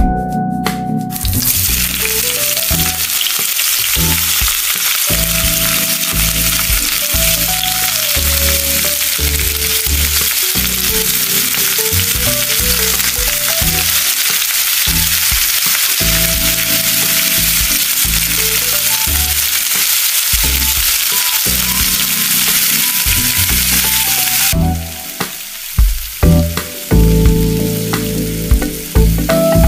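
Chopped onion and tomato dropped into hot oil in a steel wok, setting off a loud, steady sizzle about a second in; beaten egg is then poured over them and frying carries on. Near the end the sizzle eases and a spatula clicks and scrapes against the wok.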